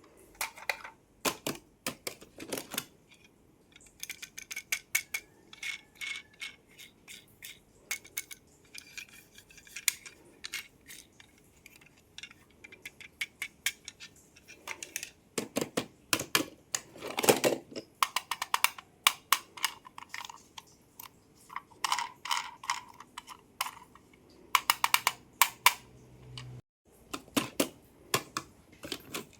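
Close-miked handling of die-cast and plastic toy cars and their packaging: irregular taps, clicks and small knocks, with a denser, louder cluster about halfway through.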